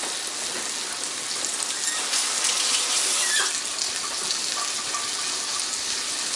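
Water running from a kitchen tap, over the steady sizzle of a chicken cutlet frying in butter and olive oil.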